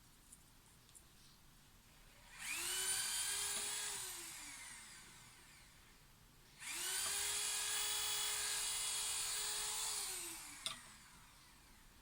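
A small electric motor whirs twice with a high whine, spinning up quickly and winding down with a falling pitch each time it stops: a short run of about two seconds, then a longer one of about four. A sharp click follows just after the second run.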